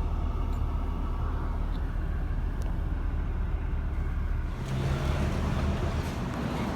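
Steady low rumble of a vehicle or machinery. About four and a half seconds in it grows louder and hissier, with a low hum joining it.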